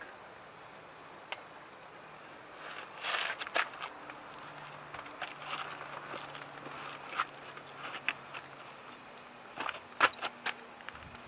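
Scattered light clicks and knocks, coming in small clusters over a faint steady background, the loudest about ten seconds in.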